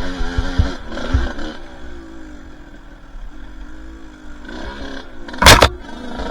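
Two-stroke dirt bike engine revving on the trail, dropping to a lower steady pitch for a couple of seconds, then picking up again, with low thumps in the first second. About five and a half seconds in, a very loud, brief scraping hit stands out above the engine.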